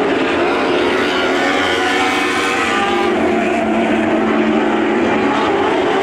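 Several Lightning Sprint race car engines running at once on the track, a steady, dense blend of engine notes at different pitches that shift slowly as the cars race.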